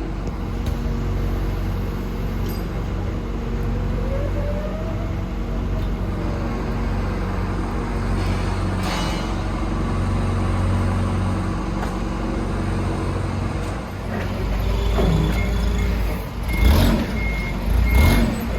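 Loading a box truck at a dock: a steady low engine hum, then a reversing alarm beeping at an even pace near the end, with two heavy thumps.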